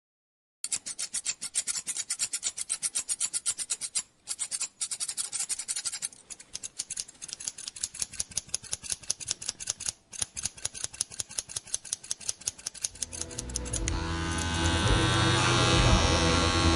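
Barber's scissors snipping through hair in a fast, even rhythm of about five cuts a second, pausing briefly twice. About thirteen seconds in, electric hair clippers start and run with a steady buzz and hum.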